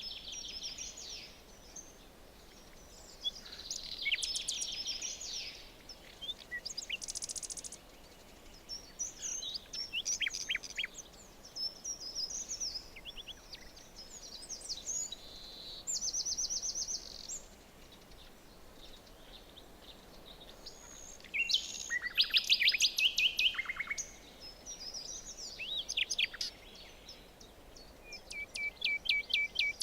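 Forest birds singing: short chirping and trilling phrases follow one another with brief gaps, over a faint steady background hiss. The loudest burst of song comes about three-quarters of the way through.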